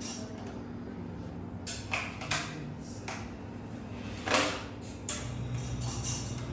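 A series of sharp clicks and knocks, such as household objects being handled, over a steady low hum; the loudest knock comes about four seconds in.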